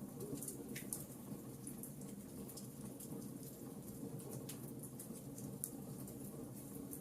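Log fire crackling: irregular small pops and snaps over a steady low hiss of the burning wood.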